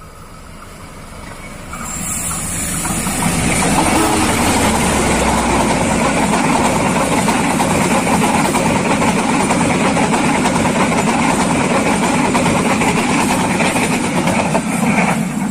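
A train passing over a level crossing: its noise builds over the first few seconds as it approaches, then holds steady and loud as the cars roll by.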